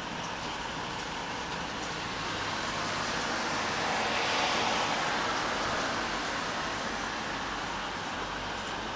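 Steady rain hiss with a broad wash of noise that swells to a peak about halfway through and then fades back.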